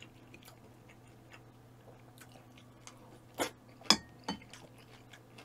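A person chewing food close to the microphone, with small wet mouth clicks. Three sharper clicks come near the middle, the loudest about four seconds in.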